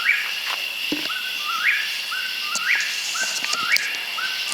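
A close animal's bird-like whistled call repeating about once a second, each call a short flat note followed by a quick upward-sweeping note, over a steady high insect drone.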